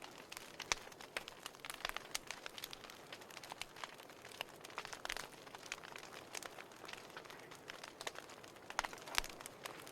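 Burning firewood crackling and popping: irregular sharp snaps over a soft hiss, with a couple of louder pops, one under a second in and one near the end.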